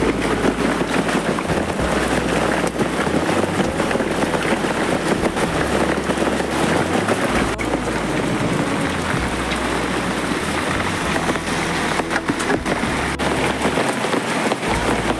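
Heavy rain and hail pouring down steadily, with a few sharper ticks of impacts about twelve seconds in.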